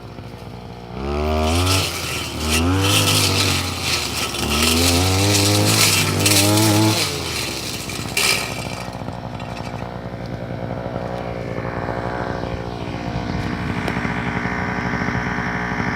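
Petrol brush cutter engine revved up three times in quick succession, then dropping back to a steady idle.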